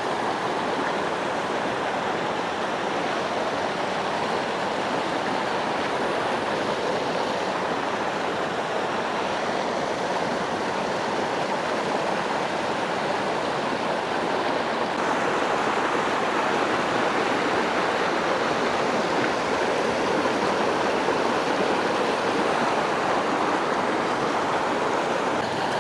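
Mountain creek water rushing and tumbling, a steady, fairly loud rush that grows a little louder about halfway through.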